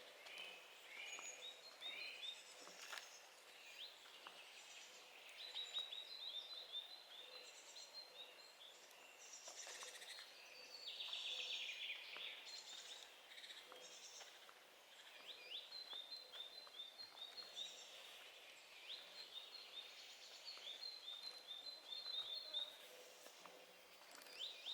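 Songbirds singing in a forest: quiet, repeated runs of short, high chirps in quick series, one after another.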